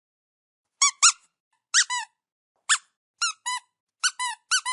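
Kitten giving a run of about ten short, high squeaky mews, mostly in quick pairs, starting about a second in.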